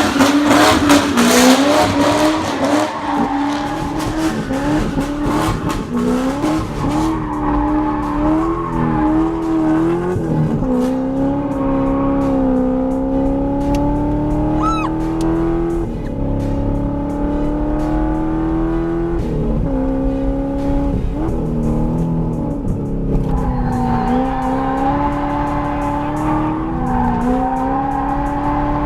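Corvette V8 revving hard while the car drifts, with tyres squealing. The engine note climbs and drops again and again as the throttle is worked, and the tyre squeal is loudest in the first few seconds.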